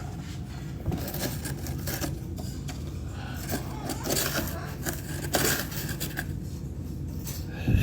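A parrot chewing and scraping at wood, with irregular crunching and scratching strokes.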